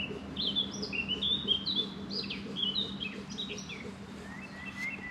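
Songbirds singing: a quick run of short, clear whistled notes, many of them falling in pitch, over a steady low hum.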